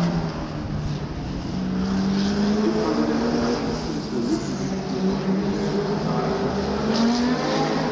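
Historic racing cars running hard at full throttle, more than one engine heard at once, their pitch rising and falling as they pass and shift gears.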